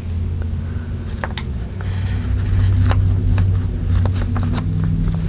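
Paper and craft pieces being handled, giving scattered small clicks and rustles, over a steady low hum.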